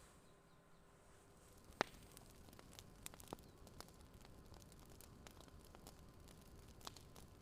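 Faint crackling fire: irregular sharp pops and snaps over a soft steady hiss, the loudest pop about two seconds in.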